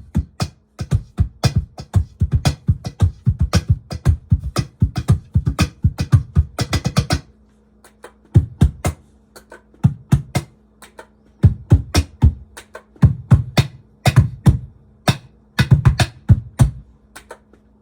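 Laptop cajon hand-drummed through a Digitech BP355 multi-effects pedal on a simple phaser preset: fast runs of low thumps and sharper slaps. The playing stops briefly about seven seconds in, then comes back in shorter bursts, over a faint steady hum.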